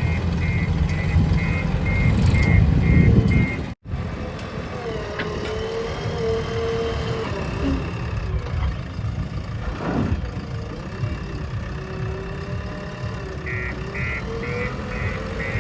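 Heavy diesel machinery running at a working load, with a reversing alarm beeping rapidly over it at the start and again near the end. The sound cuts out for an instant about four seconds in.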